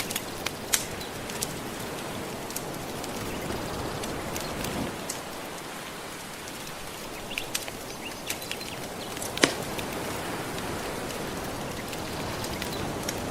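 Wood fire crackling with scattered sharp pops, the loudest about nine seconds in, over a steady wash of gentle ocean waves.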